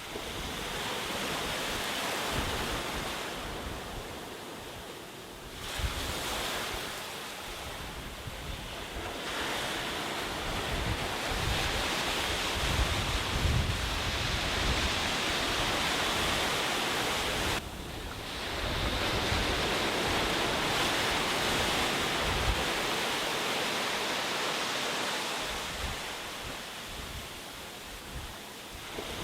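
Sea waves surging and washing up a beach, the surf rising and falling in swells every several seconds, with wind buffeting the microphone in a low rumble.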